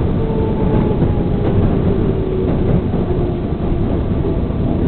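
New York subway train running, a steady loud rumble of wheels on track, with a faint whine that slowly falls in pitch partway through.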